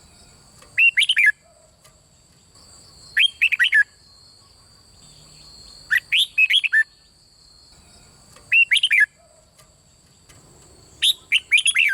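Red-whiskered bulbul singing five short phrases about two and a half seconds apart, each a quick run of swooping whistled notes.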